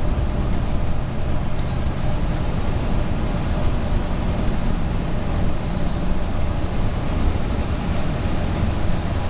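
Motorhome driving on a mountain highway, heard from inside the cab: a steady engine drone under even tyre and wind noise.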